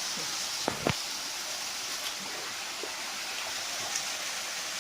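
Steady rushing of flowing river water, with two sharp clicks close together a little under a second in.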